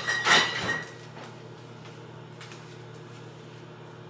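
Kitchenware clattering twice in the first second, with a brief metallic ring, as things are handled at the counter; after that only a steady low hum.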